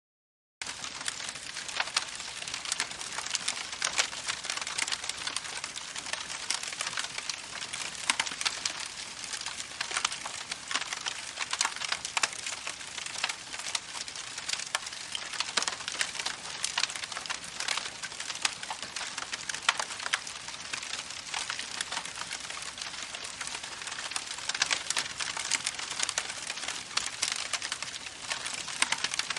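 Campfire crackling: a dense, steady stream of small pops and snaps over a soft hiss, starting abruptly about half a second in after dead silence.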